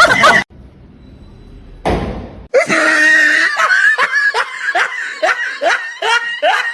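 A person's voice laughing in quick repeated bursts, about two to three a second, after a short noisy burst about two seconds in.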